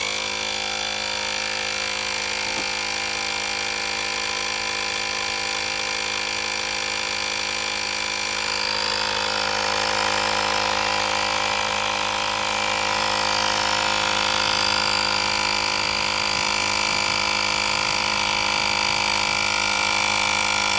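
Licheers portable tire inflator's compressor switching on suddenly and running steadily, pumping a fully deflated motorcycle inner tube toward its 32 PSI setting. It gets a little louder about nine seconds in.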